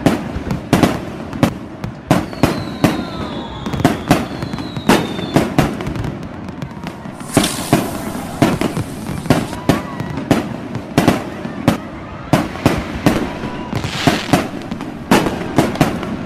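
Fireworks display: a rapid, irregular series of bangs from bursting shells throughout, with a falling whistle a few seconds in and a burst of crackling hiss about halfway through.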